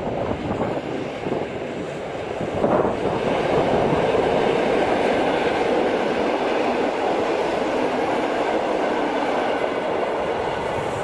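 A train passing close by: the steady noise of its wheels running on the rails, growing louder about three seconds in and then holding.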